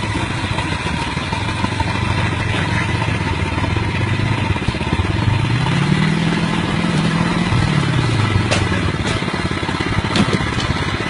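Motorcycle engine running under steady road and wind noise, its pitch rising about halfway through, holding briefly, then dropping back, with a couple of faint clicks near the end.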